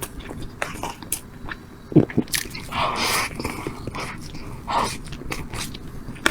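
Close-miked eating sounds: biting and chewing, with many small mouth clicks and a louder knock about two seconds in.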